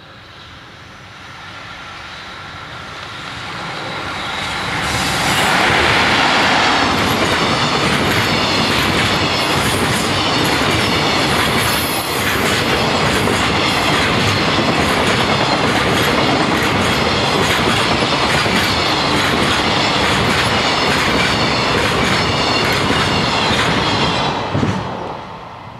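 EF65 electric locomotive hauling a long container freight train past: the sound builds as it approaches, is loudest as the locomotive goes by about five seconds in, then the wagons' wheels keep up a steady rhythmic clatter until the last wagon passes near the end and the sound falls away.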